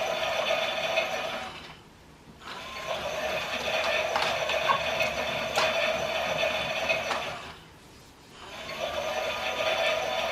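Small battery motor of a Klein Miele toy washing machine whirring as it turns the drum, stopping twice for about a second and starting again, in the stop-start turning of a pretend wash cycle. A few light clicks come through the whir.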